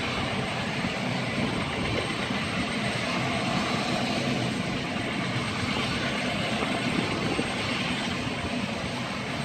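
Military helicopter running at take-off power: a steady, loud rush of turbine and rotor noise.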